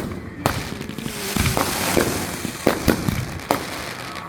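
Consumer fireworks going off: several sharp bangs, irregularly spaced about half a second to a second apart, with a hissing crackle in the first half.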